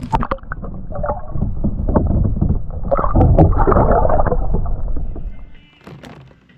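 Water splashing and sloshing beside a kayak as a caught fish is let go back into the lake, with a few sharp knocks at the start. The splashing builds, then fades out about five seconds in, and faint music comes in near the end.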